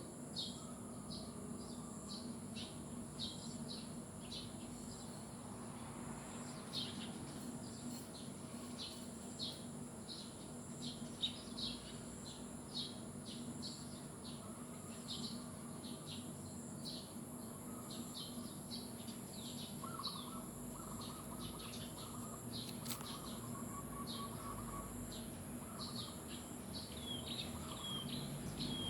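Birds chirping: many short, quick chirps repeating throughout, with a brief lower trill about two-thirds of the way through. A steady high-pitched whine runs underneath.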